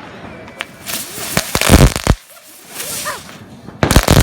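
Consumer fireworks going off: a single sharp bang, then a dense burst of crackling bangs lasting about a second. After a short lull, another cluster of rapid sharp bangs starts near the end.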